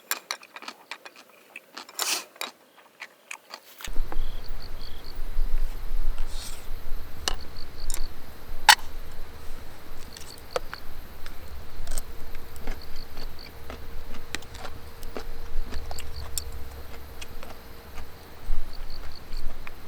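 Outdoor ambience with an insect chirping in short groups of high pips every second or two, scattered sharp clicks and a low rumble. It begins about four seconds in, after a few quiet seconds of small clicks.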